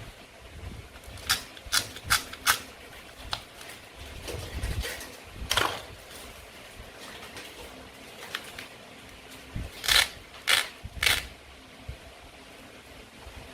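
A toy knife cutting apart play fruit and vegetable pieces, giving sharp clicks and knocks. There is a quick run of four clicks just over a second in, one near the middle, and three more near the end.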